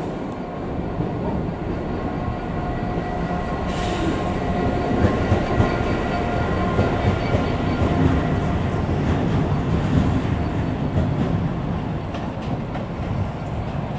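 Yellow Network Rail test train approaching and running into the station, a continuous rumble of wheels on rail with a steady mechanical hum. It grows gradually louder, peaks about two-thirds of the way through, then eases slightly.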